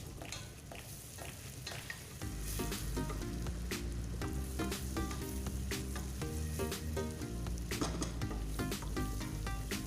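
Sliced onion sizzling as it fries in melted butter with ginger and garlic in a pot, stirred with a utensil that clicks and scrapes against the pot. The sizzle grows louder about two seconds in.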